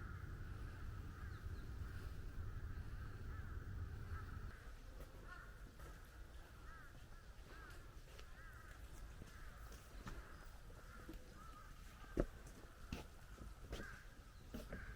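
Birds calling in a forest, a steady chatter of many short repeated calls. A low rumble, like wind on the microphone, fades out after about four seconds. A few sharp clicks come later, the loudest about twelve seconds in.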